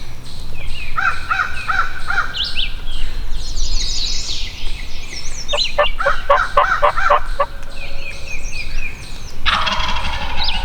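Wild turkey gobbling, a rapid rattling run of notes midway, with shorter calls before it and small songbirds chirping higher up.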